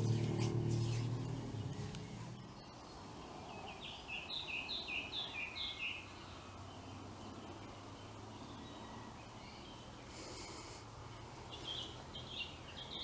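Bird song outdoors: a bird sings a short run of about six quick repeated high notes, then a few more notes near the end. Under it, a low hum fades away over the first two seconds.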